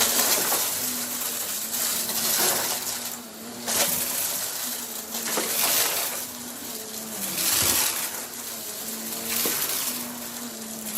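Vacuum cleaner running as it is pushed back and forth in fast strokes, its noise swelling and easing about every second and a half.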